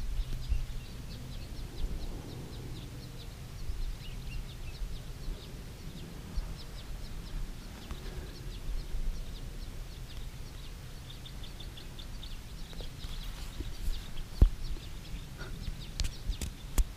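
Small birds chirping with many short, high calls repeating irregularly, over a low steady rumble, with a few sharp knocks near the end.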